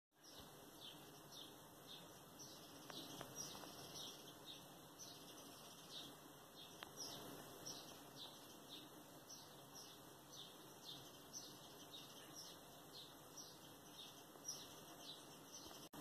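Faint chirping of a small songbird: short, high, falling chirps repeated about twice a second, over a steady background hiss.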